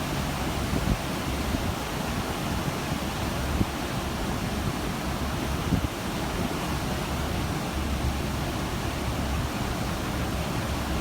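Steady rush of open-sea water and wind heard from a cruise ship, with wind buffeting the microphone in a deep rumble and a few brief thumps.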